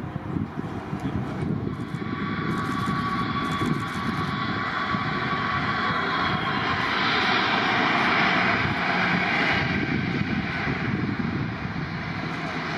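Jet airliner passing. The engine noise builds to a loud rush about two-thirds of the way through, then eases. A thin whine rides on top in the first half and fades out midway.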